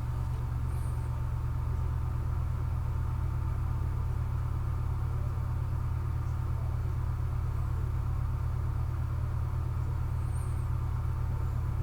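A steady low hum with no change in level and no speech over it.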